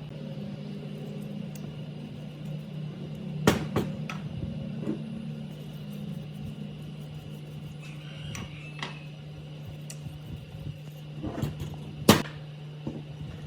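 A machine's steady electric hum, with a few sharp metallic knocks on top: a cluster about three and a half seconds in and the loudest one near the end.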